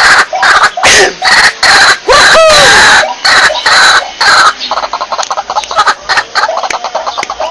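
White-breasted waterhen calling: loud, harsh notes repeated in quick succession, some swooping up and down in pitch, then from about four and a half seconds a quieter, rapid run of short clipped notes.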